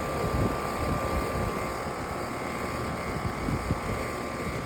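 Outdoor air conditioner units with top-mounted fans running: a steady, loud fan whir with a constant high hum over a low rumble.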